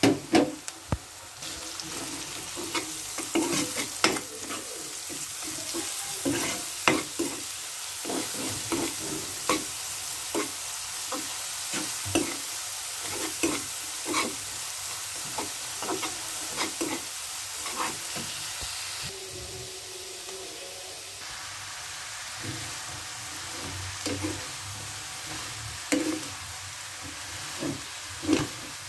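Sliced onions, green chillies and ground spices sizzling in hot oil in a wok, with a steady hiss, while a steel spatula stirs and scrapes against the pan with frequent sharp clinks. A few louder knocks come near the end.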